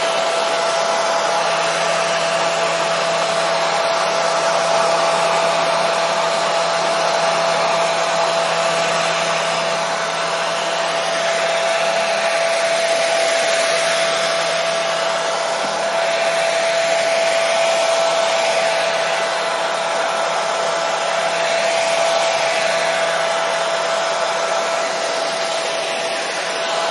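Hair dryer running steadily: an even rush of blown air with a constant motor whine, no change in speed.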